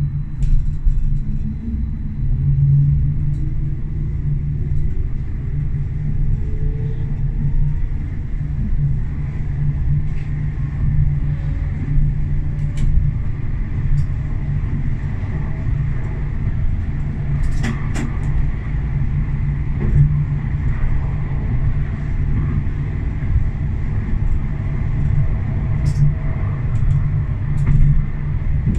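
Tram running along the track, heard from the driver's cab: a steady low rumble. A faint whine rises in pitch in the first several seconds, and a few sharp clicks come around the middle.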